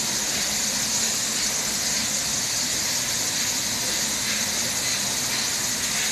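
Steady, even hissing with a faint low hum underneath, unchanging throughout.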